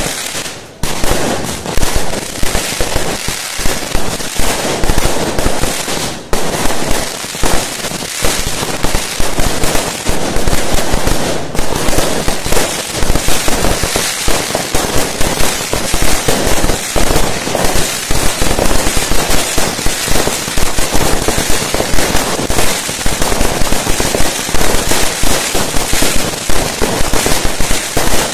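Fireworks going off in a dense, continuous barrage of rapid bangs, with brief lulls about half a second in and about six seconds in.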